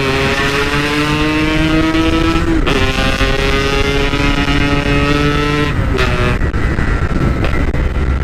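Yamaha RX-King's 135 cc single-cylinder two-stroke engine, heard on board through a stock-style 'belek' exhaust, pulling under acceleration with its pitch climbing steadily. The note breaks and drops twice, about three seconds apart, then climbs again.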